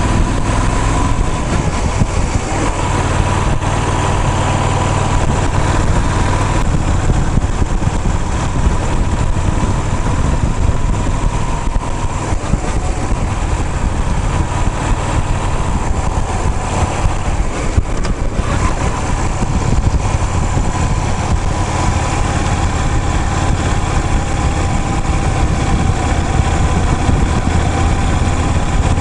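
A motor vehicle's engine running steadily, with a constant low hum and a faint tone that drifts slightly in pitch.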